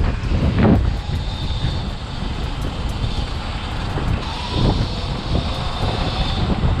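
Wind buffeting the microphone of a rider on a moving electric dirt bike: a heavy, uneven rumble with a faint steady high whine over it.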